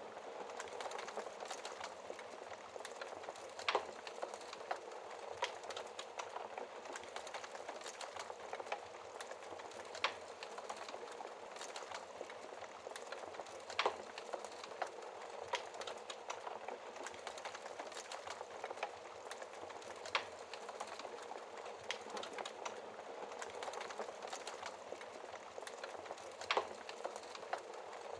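Wood fire burning in a fireplace: a steady hiss with irregular sharp crackles and pops from the burning logs.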